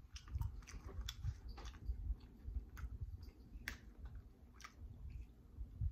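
A person chewing food close to a clip-on microphone, with irregular wet mouth clicks and smacks.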